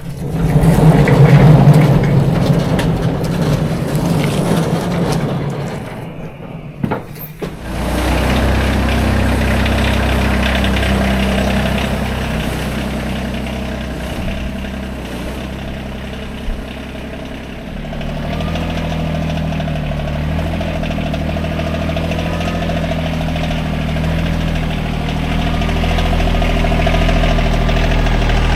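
Rural King RK24 subcompact tractor's diesel engine. It is loud and noisy for the first few seconds, then settles about 8 seconds in to running steadily, with its engine note shifting about 18 seconds in.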